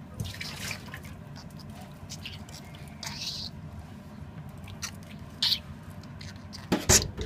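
Budgerigar's soft chatter and beak clicks: scattered short clicks, with a brief high chirp about three seconds in. A sharp tap near the end is the loudest sound.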